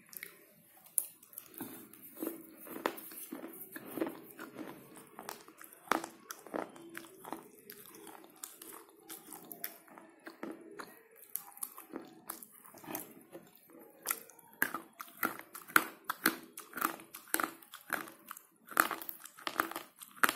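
Slate pencil pieces being bitten and chewed, a dry crunching made of many sharp cracks that come thicker and louder in the second half.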